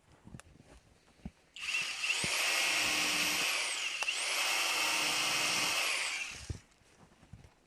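Small power tool motor, like a cordless drill, running for about five seconds. Its whine climbs and drops twice, with a brief dip in the middle.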